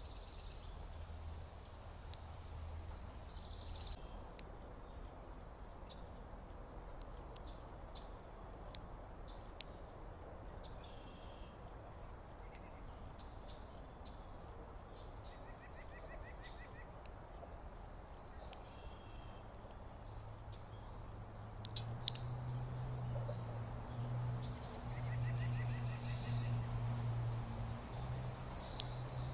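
Small songbirds giving scattered short high chirps, with a couple of quick rattling trills. About two-thirds of the way in, a low steady hum comes in under them and becomes the loudest sound.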